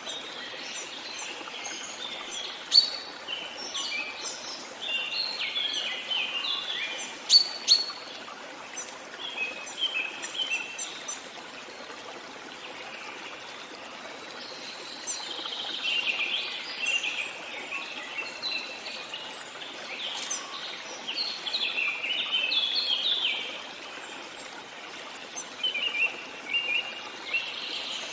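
Songbirds singing in bouts of quick chirping phrases over the steady rush of a flowing stream. The singing pauses for a few seconds about midway, leaving the water alone.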